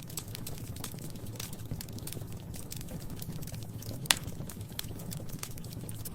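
Wood fire crackling in a fireplace: steady low rumble of flames with frequent small crackles and one louder pop about four seconds in.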